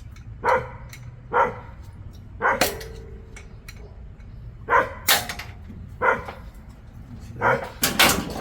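A dog barking repeatedly, single short barks and pairs about a second apart, over a steady low background hum.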